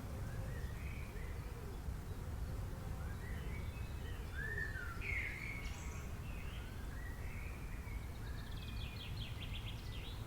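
Several birds singing and calling, short whistled phrases and a quick rattling trill near the end, over a steady low background rumble.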